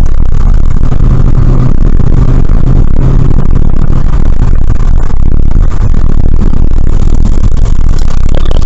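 Steady, loud engine and road noise of a car being driven, heard from inside the cabin, with a constant low engine hum.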